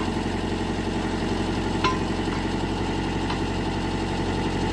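Mitsubishi MS030 mini excavator's diesel engine idling steadily, with a couple of light metallic clinks, the clearest about two seconds in.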